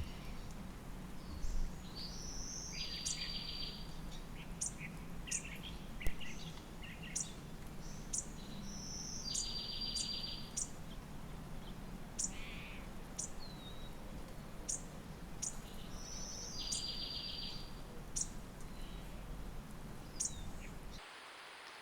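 Wild birds calling in woodland: a short, fast trilled song phrase repeated three times about seven seconds apart, with many short, sharp high calls in between. Steady low background noise throughout; the sound cuts to a quieter hiss about a second before the end.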